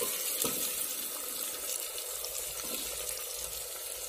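Chopped onions and green chillies sizzling steadily in hot mustard oil in an aluminium pressure cooker, with a steel ladle stirring through them.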